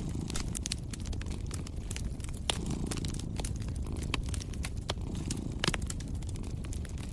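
Wood fire crackling with frequent sharp pops, two of them louder, over the low rumble of a cat purring that swells and eases with its breathing.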